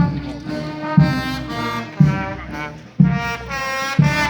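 Brass band playing a slow march, with a bass drum struck about once a second under the held horn notes.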